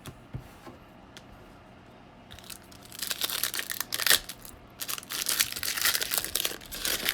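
A trading-card pack's foil wrapper being torn open and crinkled by hand, in dense crackling bursts that start about two and a half seconds in after a few faint clicks.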